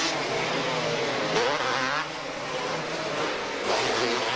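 Racing two-stroke ATV engines revving up and down as the machines race around the track, their pitch rising and falling with the throttle.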